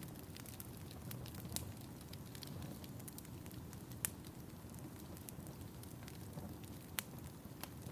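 Wood fire in a fireplace crackling, with a steady low rustle under frequent small pops and sharp snaps. The loudest snaps come about four and seven seconds in.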